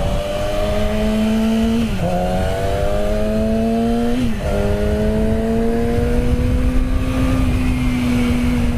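Honda Grom's single-cylinder engine accelerating through the gears. Its pitch rises and drops sharply at two upshifts, about two and four and a half seconds in, then holds steady at a cruise.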